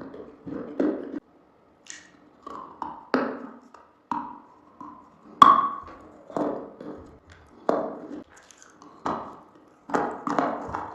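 Close-miked eating sounds: irregular taps and crunchy clicks, about one or two a second, with a few short ringing clinks of a utensil against a dish.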